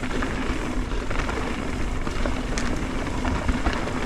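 Mountain bike rolling down a dirt jump trail: steady tyre and wind rush with scattered clicks and rattles from the bike.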